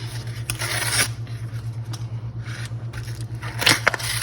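The cover of a Jiffy Pop popcorn pan being peeled and torn back, a rasping, ripping scrape in two bursts, about a second in and again near the end, over a steady low hum.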